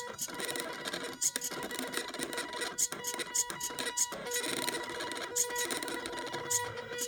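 Mini CNC plotter's small DVD-drive stepper motors whining at a few steady pitches as it draws, stopping and restarting every second or so, with occasional short clicks.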